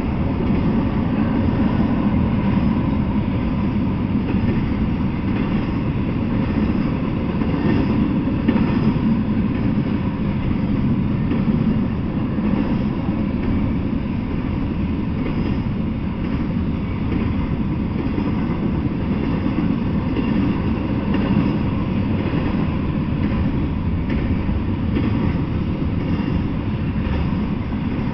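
Double-stack intermodal freight train's well cars rolling steadily past, a continuous noise of steel wheels running on the rails.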